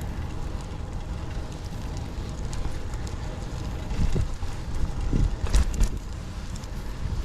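Wind buffeting the microphone with road rumble while riding a fixed-gear track bike, broken by a few short knocks about four and five and a half seconds in.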